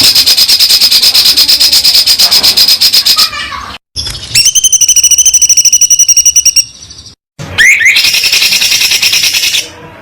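Songbird song: three runs of very rapid, high-pitched trills, each a few seconds long, broken off by sudden cuts between them.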